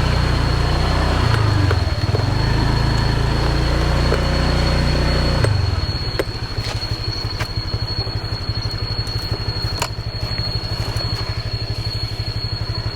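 Small motorbike engine running under steady throttle for about five seconds, then dropping to an even, pulsing idle as the bike comes to a stop, with a few sharp clicks during the idle.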